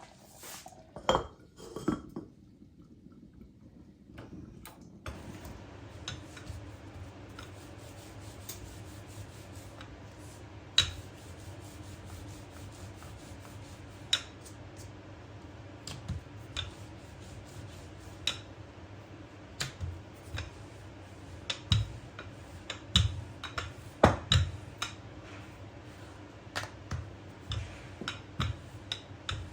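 Kitchen clatter: utensils and dishes knocking and clinking now and then, with a steady low hum that starts about five seconds in.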